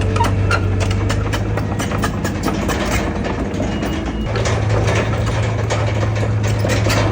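Heavy diesel engine of a bulldozer running steadily, with rapid metallic clanking over it. The engine note drops about three seconds in and picks back up a little after four seconds.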